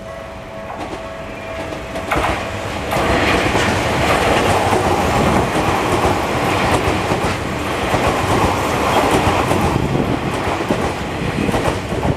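Tokyu Oimachi Line train passing over a level crossing, its wheels clattering over the rail joints. The sound is loud from about two seconds in and eases just before the end. The crossing bell's steady tones can be heard at the start.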